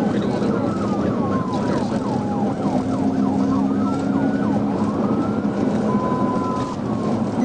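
Police car siren sounding during a pursuit: a slow wail rising and falling with a rapid yelp running over it, above steady engine and road noise.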